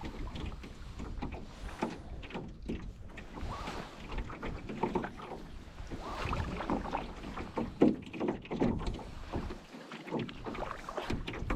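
Gusty wind buffeting the microphone, with water lapping and slapping irregularly, as around a small boat on choppy water.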